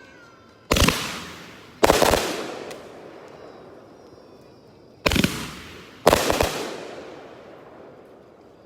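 Consumer aerial firework cake, the Sky Bacon Sky Patriot, firing four loud shell bursts in two pairs about a second apart, each trailing a long rolling echo.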